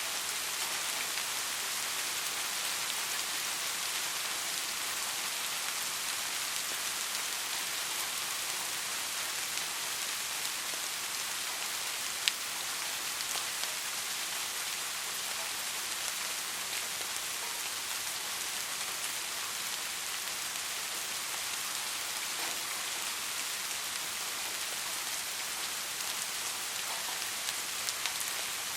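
Steady soft rain falling, an even hiss with scattered faint drop ticks and one sharper drop click about twelve seconds in.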